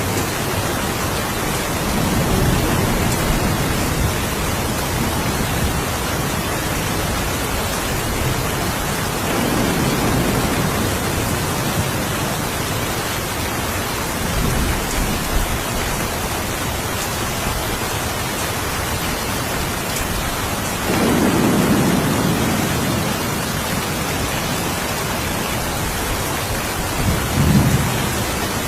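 Steady rain falling, with low rolls of thunder swelling up several times, the strongest about two-thirds of the way through.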